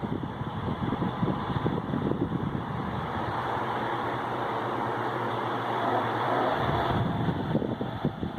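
Mondial Black Premium pedestal fan running, a steady rush of air with an uneven low rumble from the airflow on the microphone that eases off midway and comes back near the end.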